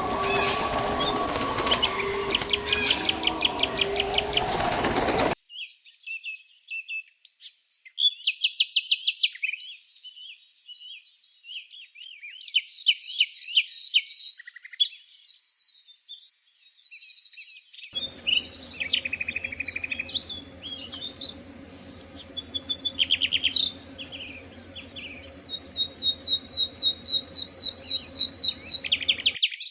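Songbirds chirping and trilling, from several recordings spliced together. The background changes abruptly about five seconds in and again about eighteen seconds in, with rapid trills and repeated high notes throughout.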